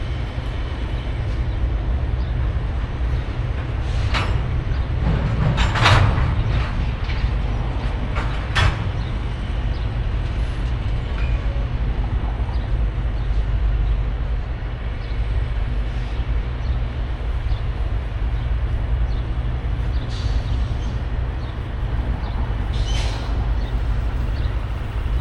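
Diesel freight locomotives running with a steady low rumble, with a few sharp clanks about 4, 6 and 8.5 seconds in.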